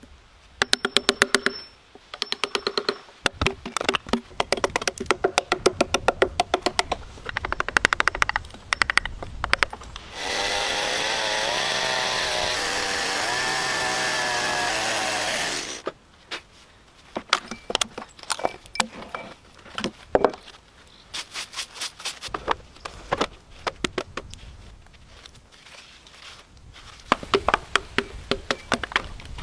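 Repeated sharp knocks of tools striking wood, in quick runs. About ten seconds in, a chainsaw runs steadily for about five and a half seconds, then stops suddenly.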